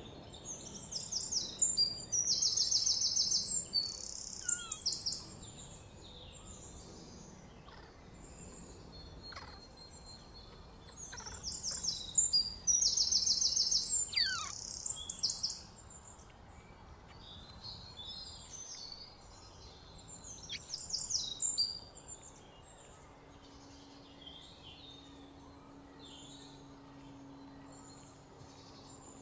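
A bird calling in three bursts of rapid high-pitched trills, each lasting a few seconds, with a few short sliding notes in between.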